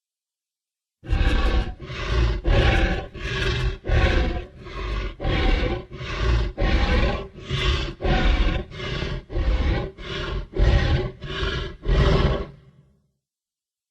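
Creature sound effect for a giant prehistoric bear: a rapid run of short, deep, rough calls, about two a second, starting about a second in and dying away near the end.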